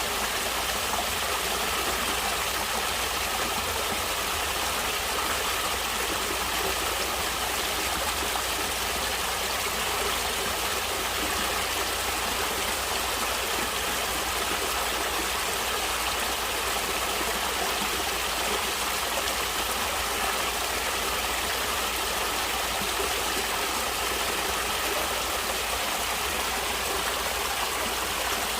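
Stream water running steadily, an even wash of sound with no breaks or changes.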